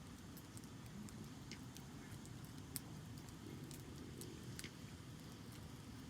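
Wood fire in a Coleman Fire Disc Plus fire pit crackling, with irregular small sharp pops and one louder pop about three seconds in, over a low steady rumble.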